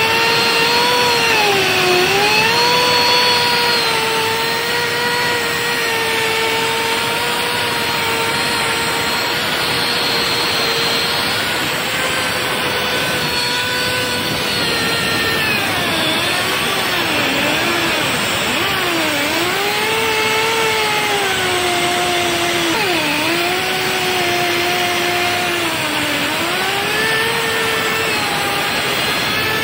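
On-site crankpin grinding machine running on a Daihatsu 6DC-17 crankshaft: a steady motor whine over a hiss. In the second half the whine repeatedly sags in pitch and recovers, as the motor is loaded.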